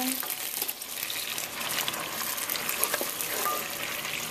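Wilted spinach with onion and tomato sizzling in a pot as it is stirred, with a few light clicks of the stirring utensil against the pot.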